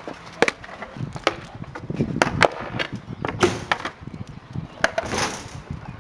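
A run of irregular sharp knocks and clacks, hard objects striking, about eight or nine hits spread unevenly with a couple coming close together in the middle.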